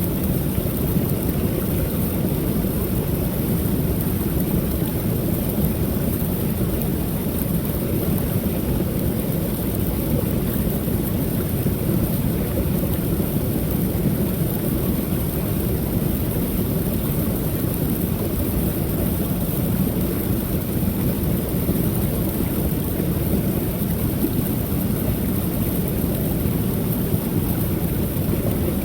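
Small creek waterfall pouring steadily, a deep even rush of falling water.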